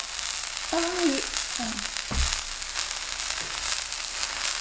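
Zucchini slices sizzling in oil on a hot grill pan: a steady frying hiss, with a short voice about a second in and a low thump about two seconds in.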